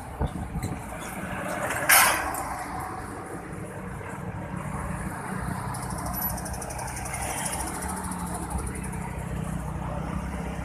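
Coach diesel engine running at a steady low idle. About two seconds in there is one short, loud burst.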